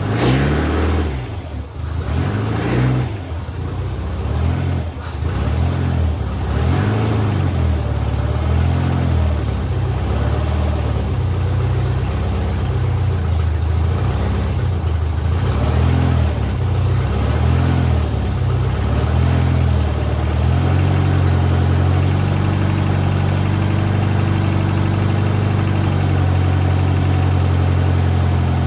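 Supercharged MG TA's four-cylinder engine running just after a cold start on choke, its revs rising and falling unevenly as it is blipped. About 21 seconds in it settles into a steady idle.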